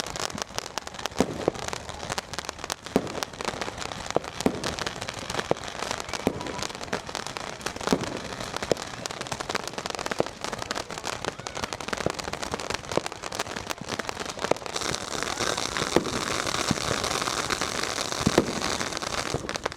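Fireworks and firecrackers going off all around: a dense, rain-like crackle of pops with a few louder bangs. About fifteen seconds in, a steady high hissing crackle joins and lasts almost to the end.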